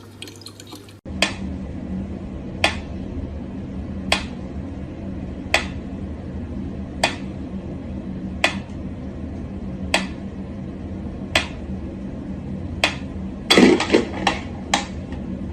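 Sharp clicks, about one every second and a half over a steady low hum, then a quick flurry of several clicks near the end.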